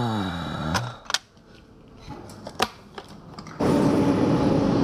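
A brief falling voice sound, then a few sharp plastic clicks as marker pens are handled on a shop rack. About three and a half seconds in, a loud steady rumble with a low hum sets in from an electric commuter train beside a station platform.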